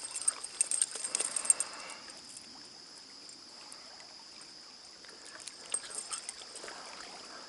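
Trout stream water: small splashes and drips in the first two seconds or so, then the quiet, steady trickle of the stream.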